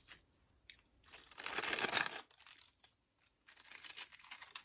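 Crinkly material such as packaging being handled: two spells of crinkling rustle, the first starting about a second in and lasting about a second, the second shorter, near the end.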